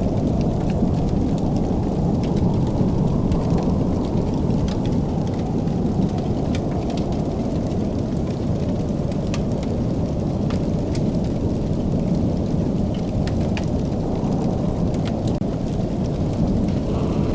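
Wood fire crackling in a fireplace: scattered sharp pops and crackles over a steady low rumble.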